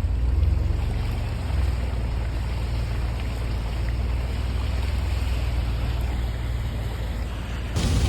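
Steady low rumble of wind on the microphone, with a louder rushing hiss coming in near the end.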